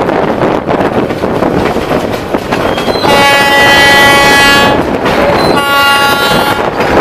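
A train horn blows two blasts, a long one about three seconds in and a shorter one near the end, over the steady rumble of a moving train.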